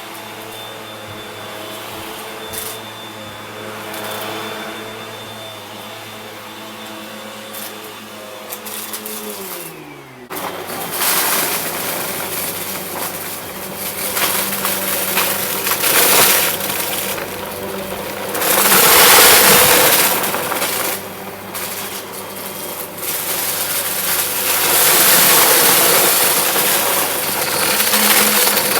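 Vacuum cleaner motor running, then winding down in pitch about ten seconds in. A vacuum then hums at a lower pitch while sucking up confetti with loud crunching, rattling surges, loudest around the middle and again near the end.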